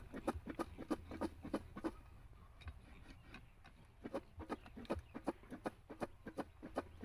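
Java plums being mixed with chili salt, a run of quick rhythmic knocks of the fruit against its container, about five a second, stopping for about two seconds midway and then starting again.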